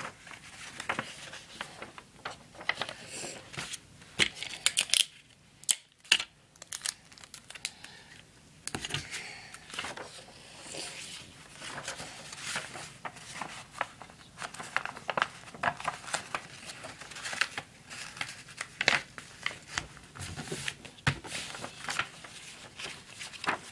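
Paper being handled and sticky tape being pulled and torn: irregular crinkles, rustles and short rips, with a quieter pause about five seconds in.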